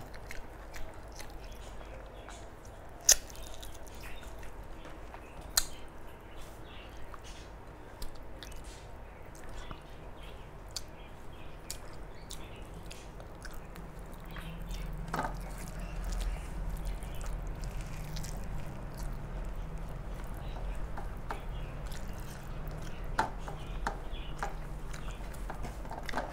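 Close-miked eating sounds: chewing, with wet mouth clicks and smacks scattered throughout as rice and fish curry are eaten. A low hum comes in about halfway through.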